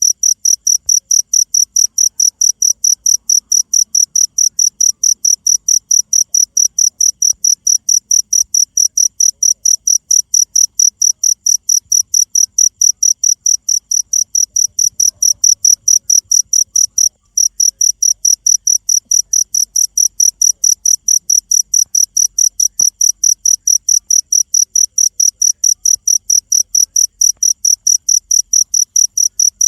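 Cricket chirping loudly in a fast, even, high-pitched pulse of about three to four chirps a second, with one brief break partway through.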